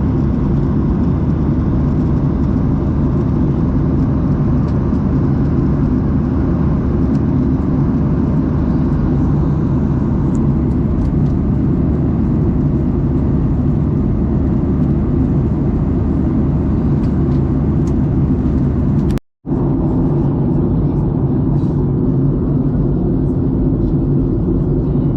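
Steady low drone of a Boeing 737-800's cabin in flight, the engines and airflow running evenly. The sound drops out for a split second about 19 seconds in, then resumes unchanged.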